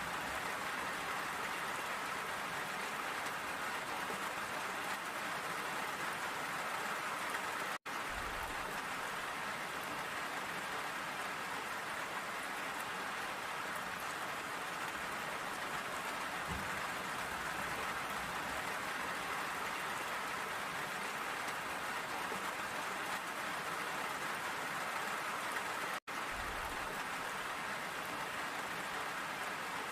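Steady rain falling in an even, dense patter, cutting out for an instant twice, about eight seconds in and near the end.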